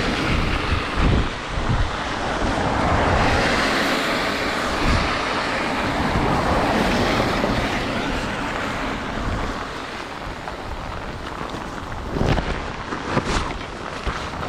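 Strong typhoon wind buffeting the microphone in a loud, continuous rush with low rumbling gusts, and a few sharper knocks near the end.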